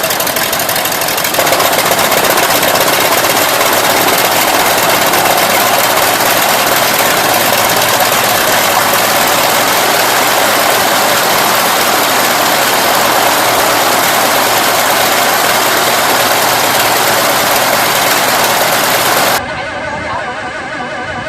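A large engine running loud and steady. It steps up in level about a second in, then cuts off abruptly near the end to a quieter engine sound from another clip.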